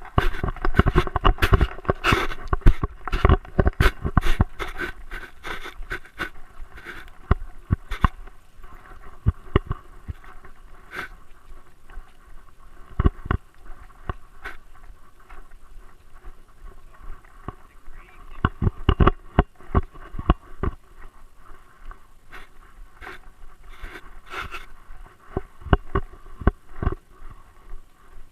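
Scraping and knocking of a body-mounted action camera in its housing as a Great Dane moves about. The knocks come in irregular clusters, busiest in the first few seconds and again about two-thirds of the way in.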